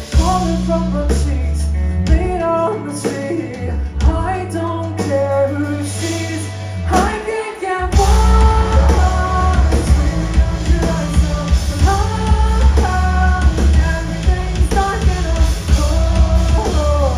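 Live pop-rock song: a woman singing over bass, guitar and drums. About eight seconds in, the full band comes in heavier and louder with strong bass and drums.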